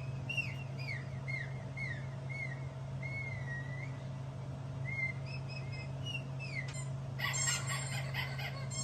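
Bird song from a sound compilation: whistled chirps, mostly short falling notes about two a second, in two bouts with a short pause between them. About seven seconds in, a louder, different call with many overtones takes over, over a steady low hum.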